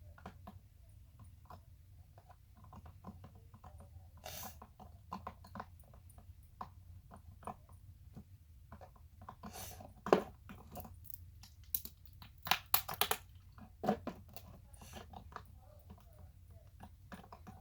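Spoon stirring a sticky glue slime mixture in a bowl: irregular wet clicks and scrapes, with a few louder knocks of the spoon against the bowl about two thirds of the way in.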